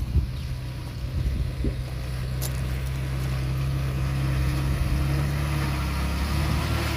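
Heavy diesel engine of earthmoving machinery running steadily, slowly growing louder, with a few short knocks near the start.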